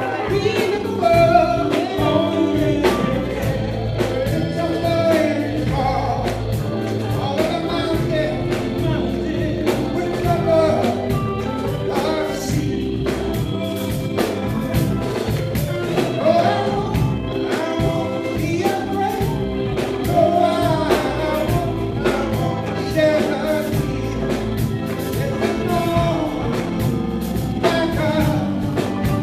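Gospel vocal group singing with instrumental backing and a steady beat.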